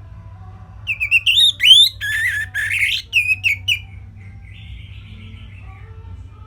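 Orange-headed thrush singing one phrase of about three seconds, starting about a second in: quick whistled notes that slide up and down, with a rougher, buzzy stretch in the middle. A steady low hum runs underneath.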